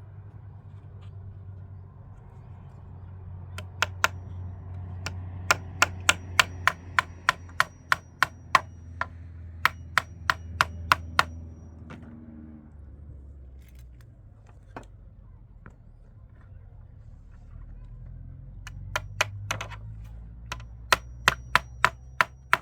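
Hammer blows, about two a second in runs of several strikes with a pause in the middle, over a low steady hum.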